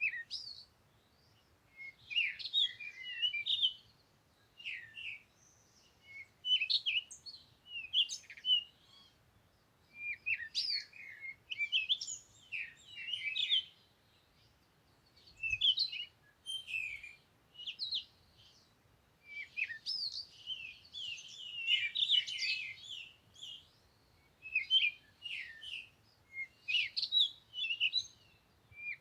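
Birds chirping in repeated bouts of quick, high twittering notes, with short pauses between the bouts.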